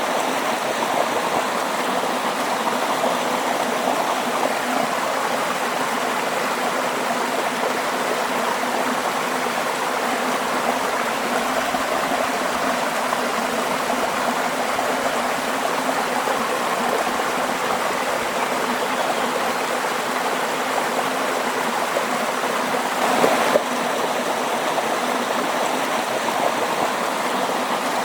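Waterfall: a steady rush of falling and splashing water, with a brief louder surge about 23 seconds in.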